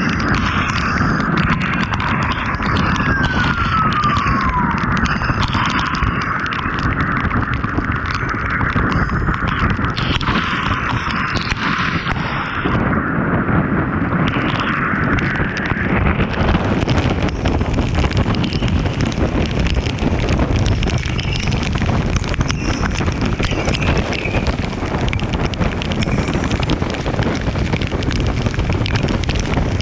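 Steady wind rush buffeting the microphone on a moving vehicle on a wet road, with road and engine noise underneath. A brief falling tone comes about three seconds in, and a brighter hiss builds in the second half.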